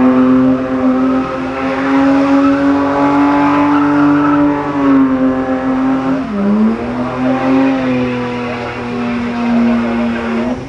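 BMW E30 325i's straight-six engine held at high, steady revs during a burnout, with the spinning tyres squealing. The revs dip briefly about six seconds in and climb back.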